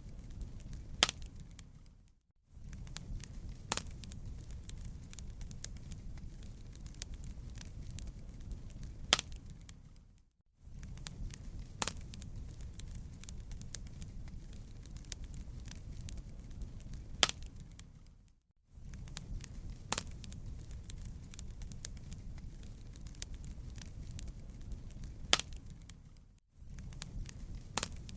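Fireplace wood fire crackling: a steady low rumble with scattered sharp pops and snaps. It fades out briefly about every eight seconds, then comes back, as a repeating loop.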